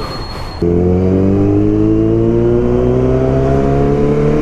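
Kawasaki Z900 inline-four engine pulling under steady acceleration, its pitch rising slowly. It comes in abruptly about half a second in, over a low rumble.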